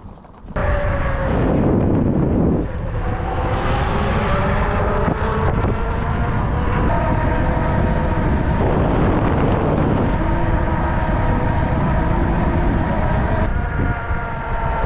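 Electric bike motor whining under throttle. It kicks in suddenly about half a second in, rises in pitch over the next few seconds, then holds fairly steady, over wind rumbling on the microphone.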